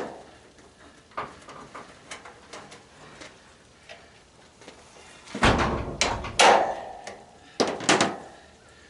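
Knocks and clanks of parts being handled while a tanning bed is taken apart: a few light taps, then a loud thump and clanks about five and a half seconds in, and two sharp clanks near the end.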